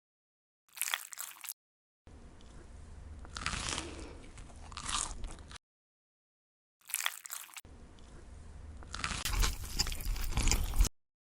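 Close-miked ASMR eating sounds: a short crunchy bite, then about three seconds of crunchy chewing, and the same pattern again, with dead silence between the separate clips.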